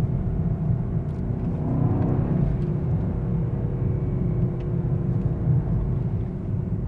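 Mercedes-AMG S63 E Performance with its 4.0-litre twin-turbo V8 driving at low city speed, a steady low rumble of engine and road noise heard inside the cabin.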